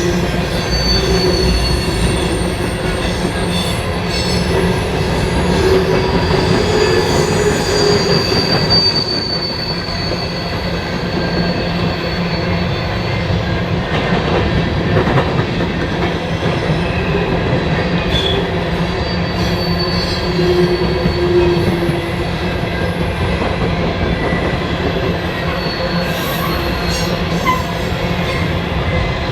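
Railroad cars rolling past at close range, a steady rumble of wheels on rail with wheel squeal that comes and goes as shrill wavering tones.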